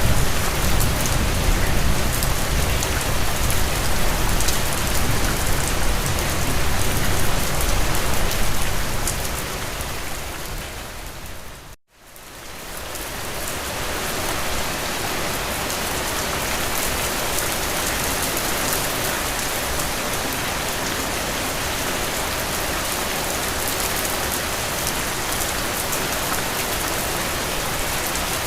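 Steady rain falling, heavier in the low end for the first several seconds. About twelve seconds in it fades out to a brief moment of silence, then swells back up and continues evenly.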